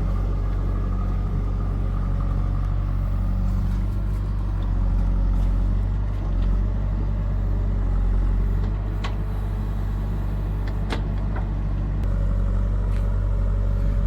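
Heavy diesel engine running steadily, with a few sharp knocks about two-thirds of the way through.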